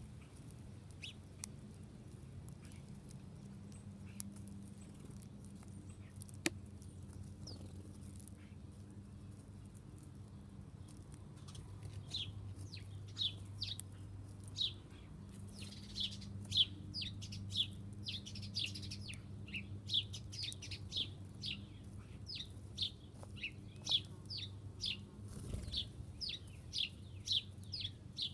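Small songbird chirping over and over in short, high, falling notes, several a second, beginning a little under halfway in. A steady low hum and a few faint clicks lie underneath.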